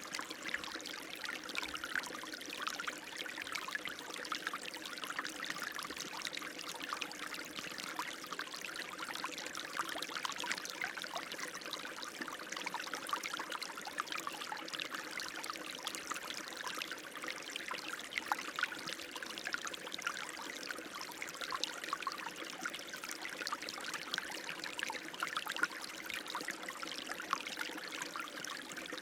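Running water flowing steadily, an even rushing with many small splashes throughout.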